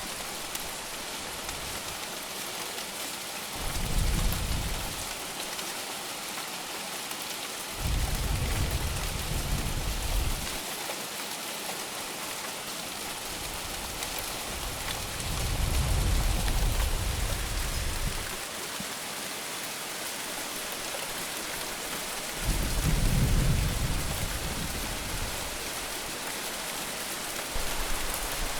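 Heavy monsoon rain falling steadily, with low thunder rumbles coming five times, each lasting one to three seconds.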